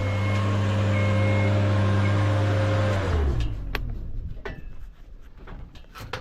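Scissor lift's electric drive or pump motor running at a steady hum for about three seconds and then winding down, with the lift's motion alarm beeping about once a second. A few clicks and knocks follow once the motor stops.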